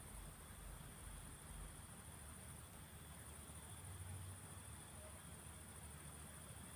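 Faint evening field ambience: a steady high-pitched insect chorus over a soft low rumble that swells briefly about four seconds in.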